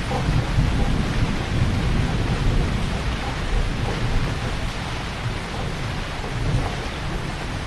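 Heavy rain falling steadily, with a deep rumble underneath that eases a little in the second half.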